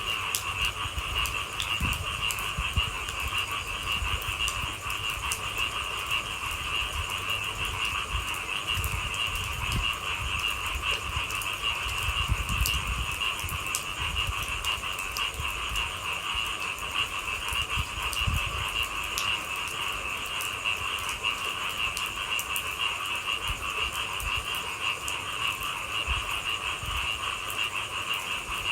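A dense chorus of frogs calling steadily, with scattered light raindrop ticks and a low uneven rumble beneath.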